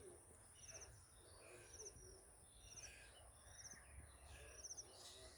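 Faint bird calls: a short, high trilled note repeated about once a second, over a steady high-pitched tone.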